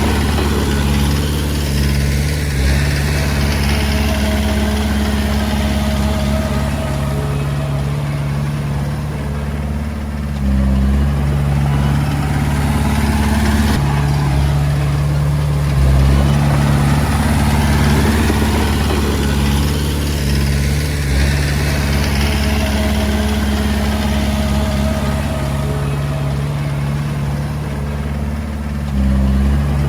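Komatsu D20A bulldozer's diesel engine running steadily as the dozer works. Its note shifts briefly about ten seconds in, again about sixteen seconds in, and near the end.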